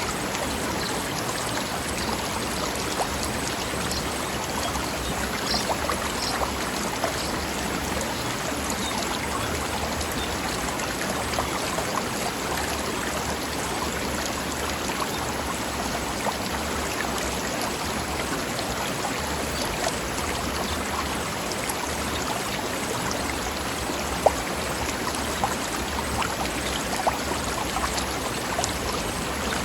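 Mountain stream flowing over rocks: a steady rushing and babbling of water, dotted with small splashes and plinks, and one sharper click about three-quarters of the way through.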